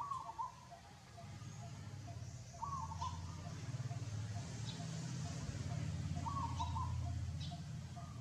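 A short warbling animal call, three times, about three to four seconds apart, over a steady low hum with faint high chirps.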